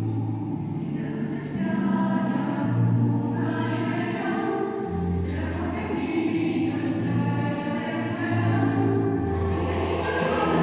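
Choir singing held chords, the low voices moving to a new note every second or two, with the hissed s-sounds of the words heard every couple of seconds.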